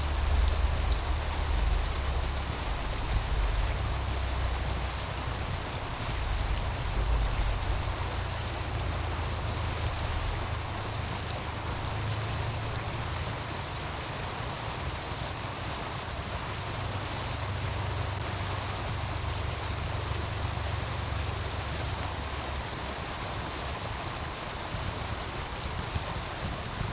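Steady rushing of a meltwater stream, with the scattered pops and crackles of a wood fire and a low rumble of wind. The wind is heaviest in the first several seconds.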